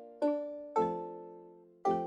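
Keyboard music: three chords struck in turn, each ringing and fading, with a longer pause before the third near the end.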